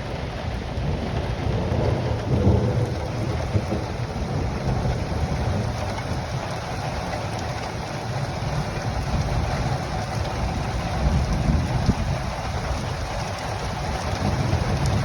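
Thunderstorm: steady rain falling, with low rolling thunder that swells up a couple of times.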